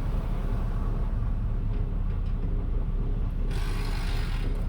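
Car road noise heard from inside the cabin while driving: a steady low rumble of engine and tyres, with a brief rush of hiss about three and a half seconds in lasting about a second.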